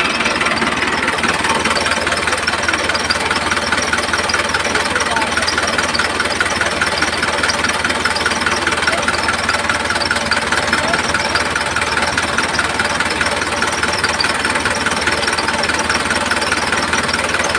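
Small engine or motor, likely a miniature DIY tractor's, running steadily with a fast, even chugging.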